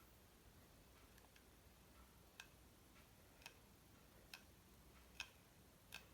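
Near silence with five faint, light ticks a little under a second apart, starting about two seconds in.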